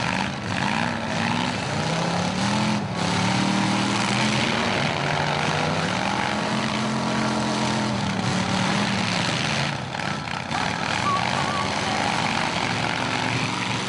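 Many demolition derby cars' and trucks' engines revving hard together as the heat starts, their pitch rising and falling.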